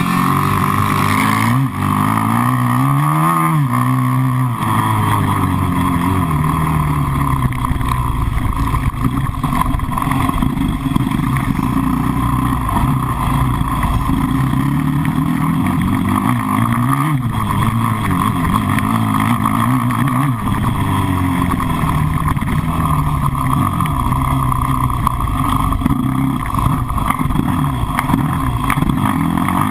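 An engine running continuously, its pitch rising and falling a few times as it speeds up and slows.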